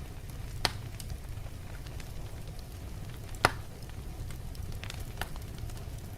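Fire crackling in a fireplace: a steady low rumble with scattered small crackles and two sharper pops, one under a second in and one about three and a half seconds in.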